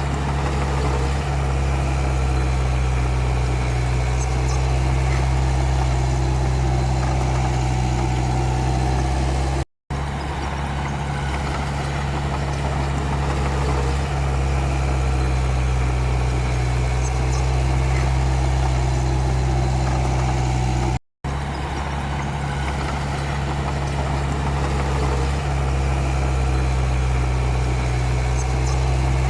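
Komatsu D31P bulldozer's diesel engine running steadily at a constant pitch, with two brief drop-outs to silence about ten and twenty-one seconds in.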